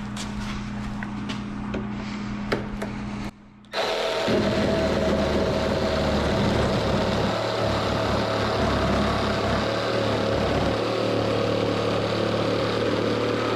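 Milwaukee M12 cordless jigsaw cutting a cedar scrap board: a loud, steady saw sound with a constant whine that starts about four seconds in and stops near the end. Before it, a low steady hum with a few light clicks.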